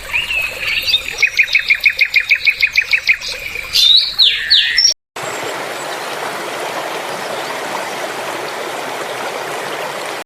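Canary singing: a rapid trill of about fifteen repeated notes, then a few whistled glides. About five seconds in the song cuts off, and after a brief gap a steady hiss like running water continues.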